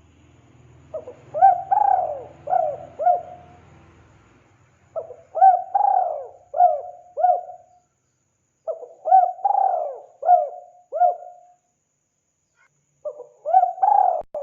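Spotted dove calling: four phrases of about five quick arched coo notes each, one phrase every three to four seconds, the last running on past the end.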